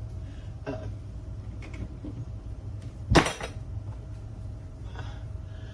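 A kitchen cupboard door shut with a single sharp bang about three seconds in, with a few faint clicks before and after, over a steady low hum.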